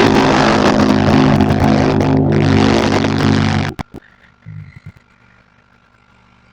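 Loud, harsh, distorted buzzing from a microphone fed through Clownfish Voice Changer's effects, a held sound with a steady pitch that cuts off suddenly a little over halfway through, leaving only a faint hum.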